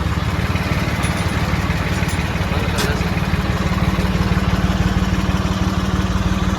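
Tractor engine running steadily, with a rapid, even firing beat and a strong low hum.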